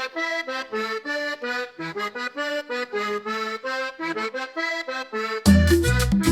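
Accordion playing a quick, bouncy melody of short separate notes on its own; about five and a half seconds in, bass and percussion come in and the music gets louder.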